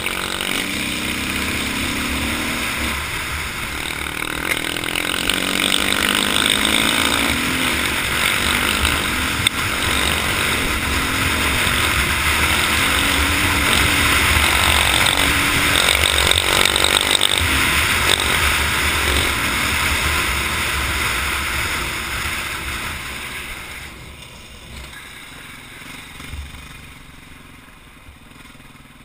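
Off-road motorcycle engine running under way, its note rising and falling with the throttle, with wind rushing over the microphone. About 23 seconds in, the engine and wind fall much quieter as the bike eases off.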